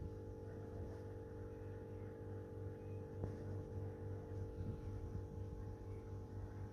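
Steady low hum of mains-powered equipment, with one faint click about three seconds in.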